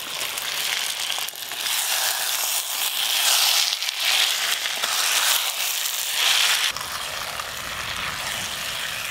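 Raw chicken pieces sizzling and crackling as they go into hot oil and spice paste in a clay pot and are stirred with a metal spatula. The sizzle drops abruptly about two-thirds of the way through and carries on more softly.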